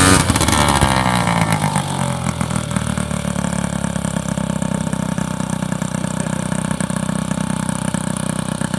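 Airboat's opposed (boxer) engine and propeller winding down from high revs as the throttle is let off, the pitch falling over about two seconds, then settling into a steady idle.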